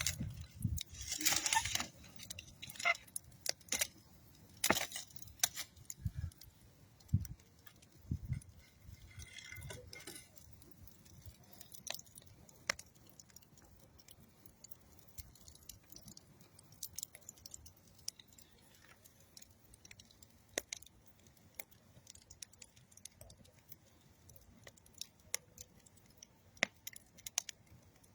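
Wood fire of old railroad timber and dead tree wood crackling: irregular sharp snaps and pops, busier and louder in the first ten seconds, with a cluster about a second in, then sparser single snaps.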